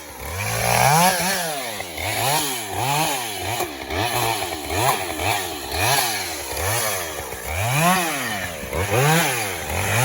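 Husqvarna chainsaw revving up and dropping back over and over, about one and a half times a second.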